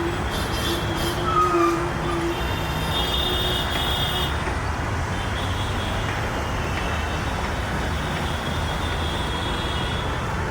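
Steady rumble of passing road traffic, with a few brief higher-pitched whines in the first few seconds.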